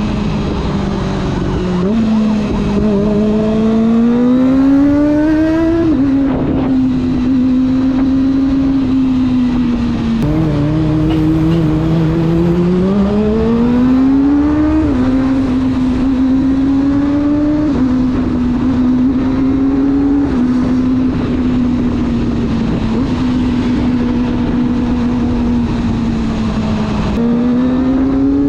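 Kawasaki ZX25R's 249 cc inline-four engine under way, its pitch climbing as it accelerates. It drops sharply at each upshift and holds steady while cruising, with several gear changes through the stretch.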